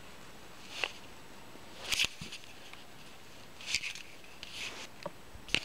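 Hands threading a string through a fabric hair tie and ribbon close to the microphone: a handful of short, scattered rustles and scuffs.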